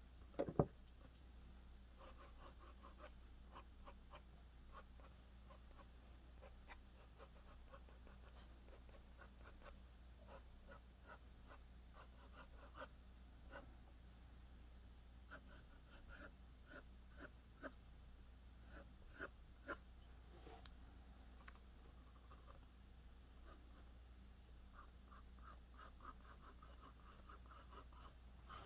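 A pencil scratching on paper in quick, short strokes, lines being laid down one after another for strands of hair, faint and in irregular runs. A single soft thump comes about half a second in.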